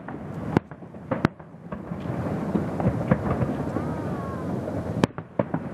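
Fireworks display: three sharp bangs of aerial shells bursting, about half a second in, a second or so in and near the end, over a continuous rumble of booms and crackles. A brief rising-and-falling whistle about four seconds in.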